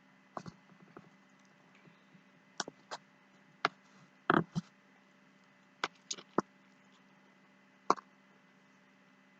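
Eating sounds: a dozen or so short clicks and smacks at irregular intervals, over a faint steady hum.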